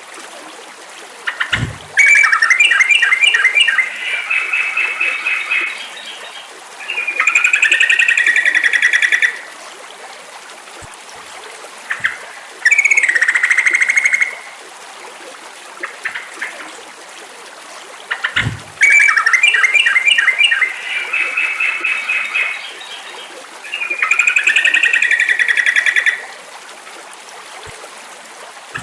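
Yellow-vented bulbul (trucukan) song from a bird-training recording: loud bursts of quick, bubbly trilled and chattering phrases, a few seconds each, with short gaps between. The same run of phrases repeats about sixteen seconds later, over a steady background hiss.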